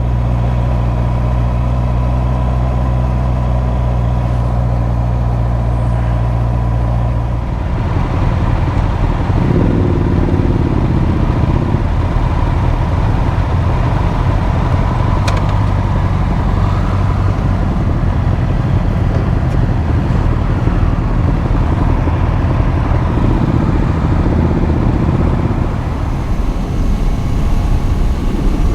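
Motorcycle riding on the road, heard from the rider: a steady engine note for about the first seven seconds, then a rougher mix of engine and wind noise for the rest.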